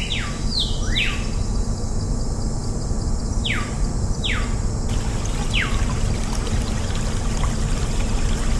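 Water pouring in a steady rush, with several short high whistles falling in pitch during the first six seconds.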